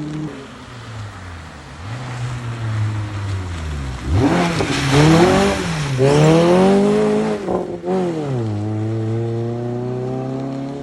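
Rally car passing at speed on a gravel forest stage: its engine revs rise and fall several times through gear changes, with a rush of tyre and gravel noise as it comes closest, about four to six seconds in. It then pulls away on a steadier, quieter note.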